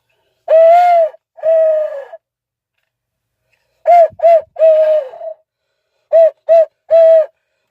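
Mouth-blown owl hooter call sounding the barred owl's 'who cooks for you, who cooks for you all' sequence: two hoots, a pause, then two groups of two short hoots each followed by a longer one. The caller is short of breath and judges it terrible.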